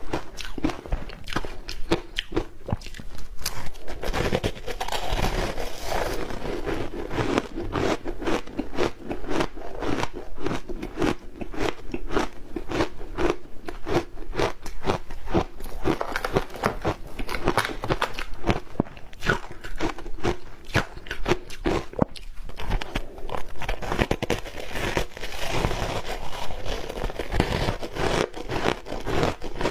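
Ice coated in matcha green tea powder being bitten and chewed: a dense, continuous stream of hard crunches and cracks.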